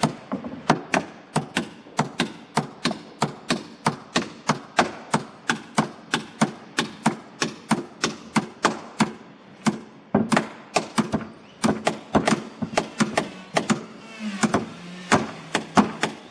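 Repeated sharp blows of a hand tool on boat timber, about three a second, keeping a steady working rhythm.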